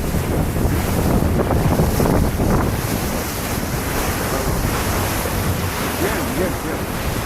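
Wind buffeting the microphone on a boat under way, over the steady rush of water along the hull.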